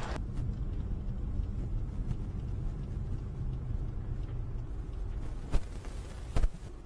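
Low steady rumble, with two short sharp knocks near the end.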